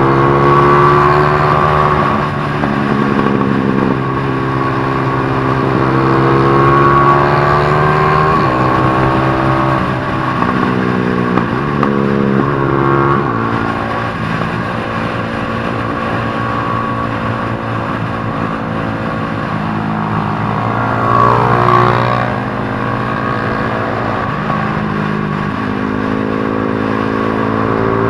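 Several motorcycle engines revving, their pitch rising and falling with throttle and gear changes. One swells louder and sweeps past about 21 seconds in.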